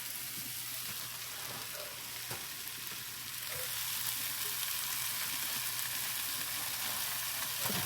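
Chicken frying with sautéed onions and peppers in a hot pan: a steady sizzle that grows louder about three and a half seconds in, with a few light knocks of a utensil stirring.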